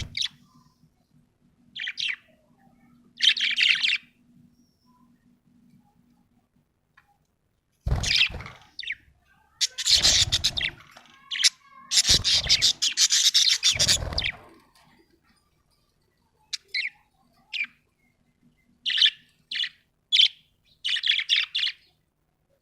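Budgerigar chirping and chattering in bursts: a few short chirps, then a loud, dense run of chatter for several seconds in the middle, then quick separate chirps near the end.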